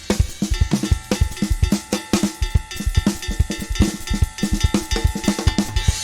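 Recorded music led by a drum kit: a fast, busy pattern of bass drum, snare and cymbal hits over a few held notes.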